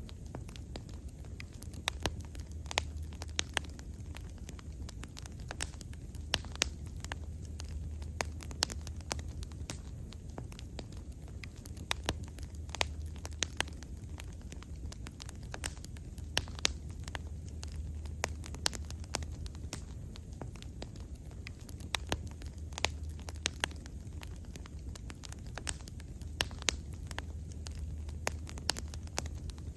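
Wood bonfire burning, with irregular sharp crackles and pops several times a second over a steady low rumble of the flames.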